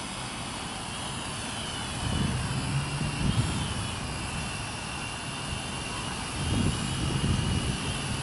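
Small R/C quadcopter drone's propellers whining at a high pitch that wavers a little as it flies. Wind rumbles on the microphone in two gusts, about two seconds in and again near the end.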